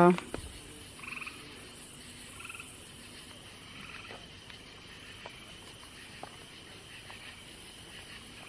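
Frogs calling: a couple of short, pulsed croaks over a faint, steady high background hum.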